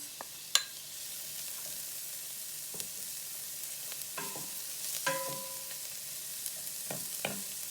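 Chopped onions sizzling steadily in hot oil in a pot as they are stirred, the sizzle building about a second in. A sharp knock about half a second in, then a few lighter knocks of the utensil against the pot, two of them ringing briefly.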